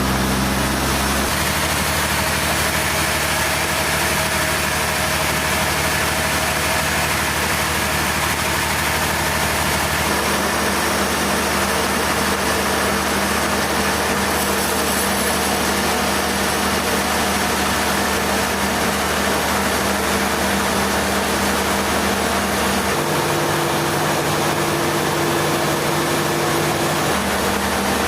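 Sawmill machinery engine running steadily, its low hum changing abruptly in pitch a few times.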